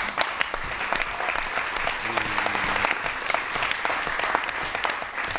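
Wedding guests applauding, a dense patter of many hands clapping, with a murmur of voices in the crowd.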